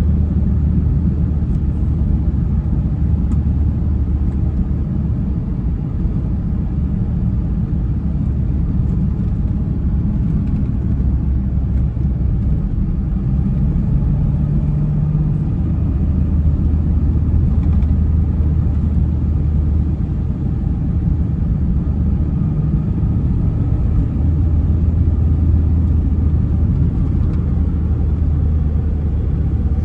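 1996 Toyota Tacoma pickup driving, its engine giving a steady low drone over road rumble. The engine note shifts slightly in pitch a few times.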